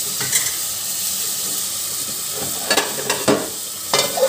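Onions and tomatoes sizzling in oil in a metal pot, a steady frying hiss. A metal spoon scrapes and knocks against the pot a few times, mostly in the second half.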